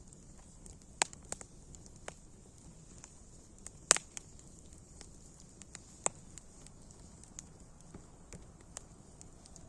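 Campfire crackling: irregular sharp pops of burning wood over a steady high hiss, the loudest pop about four seconds in.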